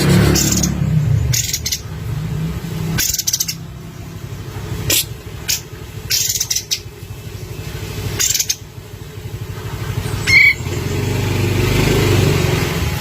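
Cream-vented bulbul giving short, harsh, rattling chatter bursts every one to two seconds, with a brief clear whistled note about ten seconds in. A motor vehicle passes at the start and again near the end.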